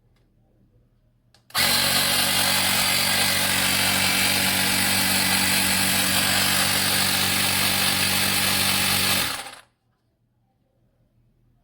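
Portable cordless electric tyre inflator's small compressor running steadily for about eight seconds, with a low motor hum under a loud hiss. It starts about a second and a half in and stops near the end.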